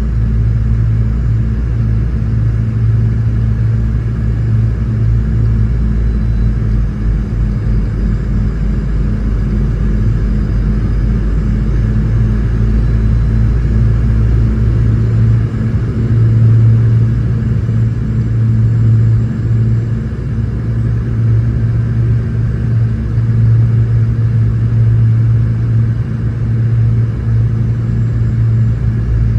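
Cabin noise inside a Boeing 717-200 in flight: a steady low drone from the tail-mounted Rolls-Royce BR715 engines and airflow. The deepest rumble eases about halfway through.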